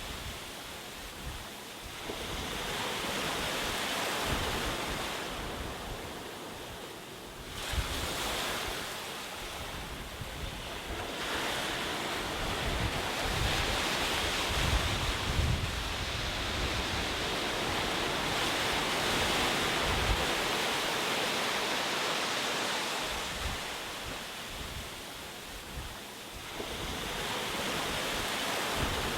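Ocean waves breaking and washing up on a shore, the surf swelling and ebbing in slow surges several seconds apart, with wind.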